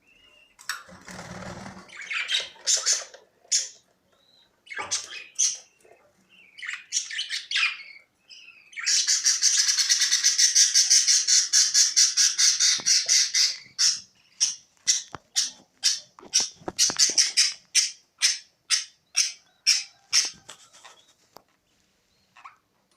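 Budgerigars chattering and squawking: scattered calls, then a long dense stretch of warbling chatter, then a run of short sharp chirps at about two or three a second.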